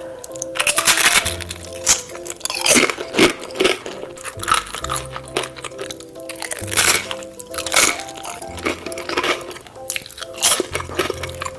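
A person biting and chewing crunchy food close to the microphone, a series of sharp, irregular crunches, over background music with a steady bass line.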